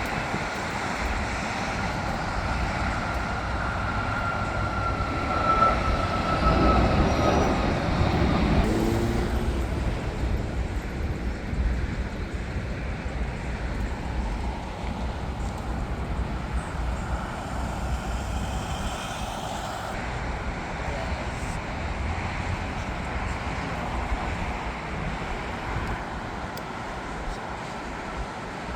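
Jet airliner passing: a steady engine rumble with a high whine that slowly falls in pitch, swelling loudest about six to eight seconds in and then easing off.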